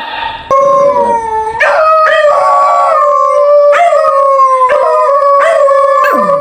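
A dog howling in long, drawn-out notes, each held for about a second or two and sagging slightly in pitch before a fresh rise, with a short sharp cry at the start.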